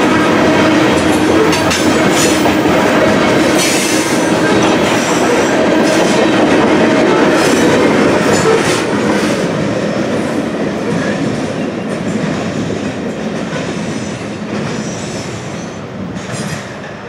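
Freight train's covered hopper cars rolling past with wheels clattering over the rails and a steady squeal. The noise fades once the last car passes, about halfway through, as the train moves away.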